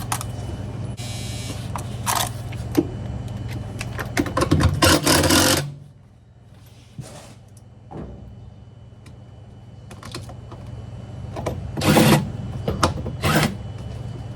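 Washer parts being refitted by hand: short bursts of a power screwdriver running screws in, with knocks and rattles of the metal cover and parts. A steady low hum runs underneath and stops about six seconds in.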